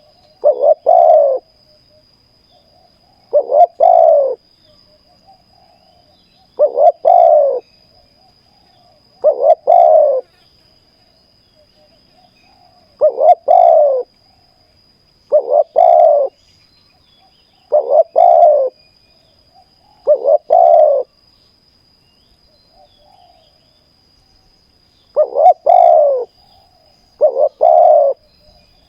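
Spotted dove cooing: a short phrase of a few quick, rolling notes, repeated about every two to three seconds, eleven times over.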